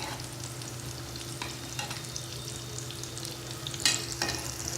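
Besan-battered potato pakoras deep-frying in hot oil: a steady sizzle, with a few sharp clicks about one and a half and four seconds in.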